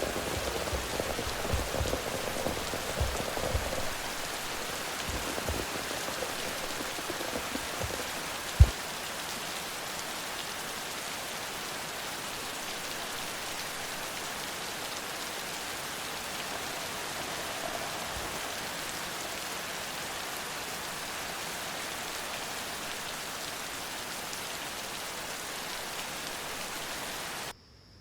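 Steady rain falling, with irregular heavy drops knocking in the first few seconds and one sharp knock about nine seconds in. The sound cuts off abruptly near the end.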